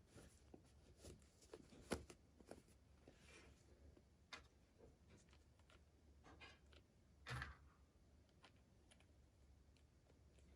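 Near silence with faint, scattered clicks and rustles of small objects being handled. There is a sharper click about two seconds in and a brief rustle about seven seconds in.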